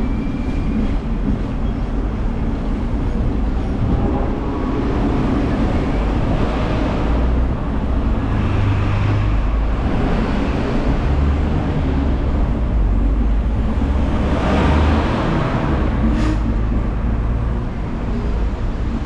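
Hong Kong double-decker tram running along its tracks: a steady rumble of the motor and steel wheels on the rails.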